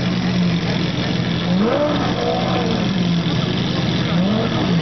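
Lamborghini Aventador's V12 engine idling, blipped twice so the pitch swells up and drops back, about two seconds in and again near the end.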